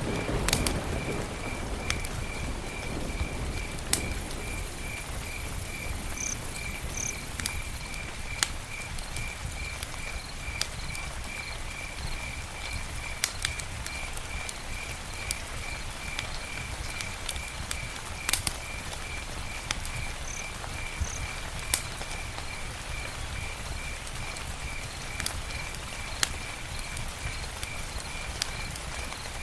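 Campfire burning with scattered sharp crackles and pops over a low rumble, while a cricket chirps steadily in a high, evenly paced pulse throughout.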